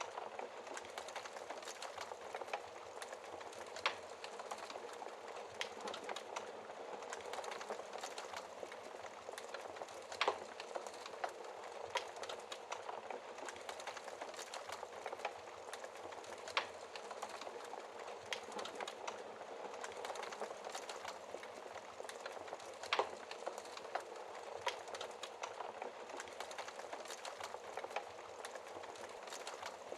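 Wood fire crackling in a fireplace: a steady hiss of small crackles with a louder, sharp pop every few seconds.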